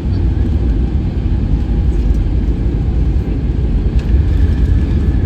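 Steady low rumble of a jet airliner heard from inside the passenger cabin on final approach to landing, with a faint click about four seconds in.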